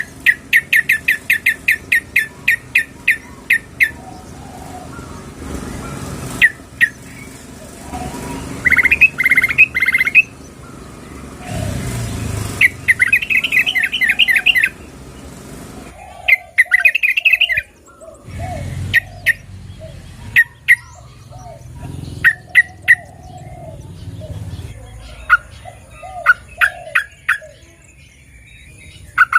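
Yellow-vented bulbul (trucukan) calling: a fast run of sharp chirps, about four a second, then chattering phrases and single notes. The recording is offered as a female calling a male. Lower, softer curved notes repeat under it in the second half.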